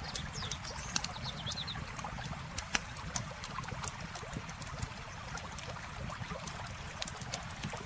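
Wood campfire crackling with frequent sharp, irregular pops over the steady trickle of flowing river water.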